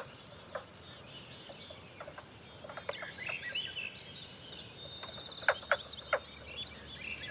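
Dawn chorus of songbirds: several birds singing at once in high overlapping trills and chirps, with a few loud, short, sharp calls about five and a half to six seconds in.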